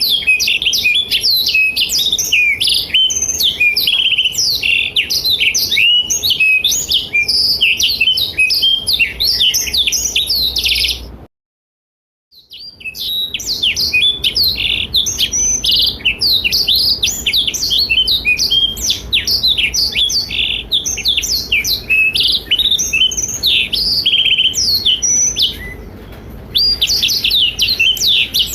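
Black-throated canary (blackthroat) singing a fast, continuous twittering song of quick sweeping notes, broken by about a second of complete silence some eleven seconds in and a short pause near the end.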